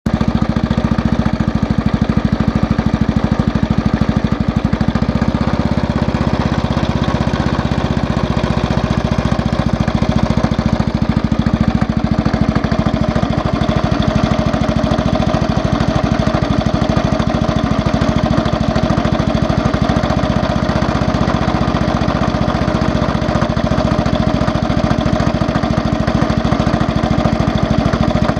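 Yamaha Cygnus scooter's single-cylinder four-stroke engine running steadily with a rapid, regular knock throughout, which the owner suspects comes from a worn crankshaft side bearing or connecting-rod big-end bearing. A higher hum joins about halfway through.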